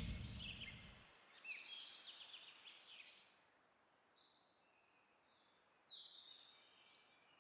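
Faint songbird chirps and short trilling phrases, repeated several times. Background music fades out in the first second.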